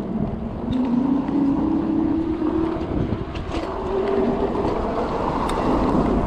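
Juiced City Scrambler e-bike's electric motor whining, rising in pitch as the bike picks up speed, over steady wind and road noise.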